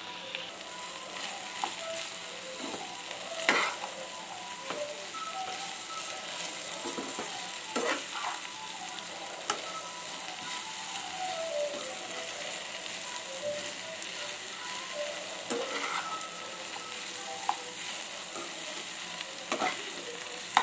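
Chopped okra sizzling in hot oil in a metal pan while a perforated metal ladle stirs it, scraping the pan, with a sharp knock of the ladle against the pan every few seconds.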